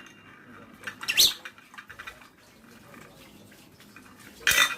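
Pet lovebird calling: a sharp chirp with a bending pitch about a second in, then a louder, harsher screech near the end.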